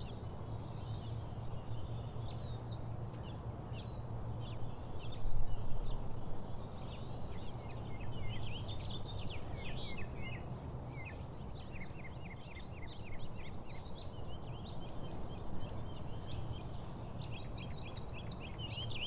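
Songbirds chirping and singing, with many short high calls and a fast trill of repeated falling notes partway through, over a steady low hum. A brief low rumble comes about five seconds in.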